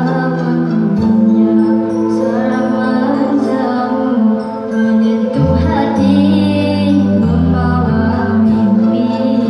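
A song sung over instrumental backing music, part of a vocal duet, with held bass notes under the voice.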